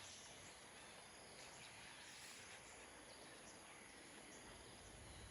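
Near silence: faint forest ambience with a steady, high-pitched insect drone.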